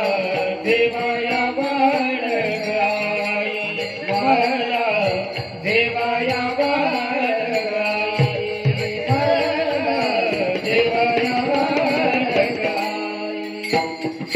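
An elderly woman singing a Marathi gavlan in a high, rustic folk voice, drawing out long wavering notes over a steady held drone. Drum strokes and a regular ticking rhythm keep time, with the drum strokes standing out after about eight seconds and again near the end.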